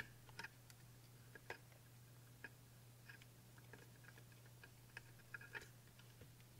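Near silence with faint, irregular light clicks and ticks from hands working small soldering tools and solder wick over a circuit board, over a low steady hum.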